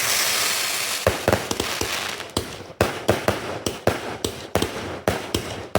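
Fireworks going off in quick succession: a hissing, crackling burst in the first second, then a string of sharp bangs, two or three a second.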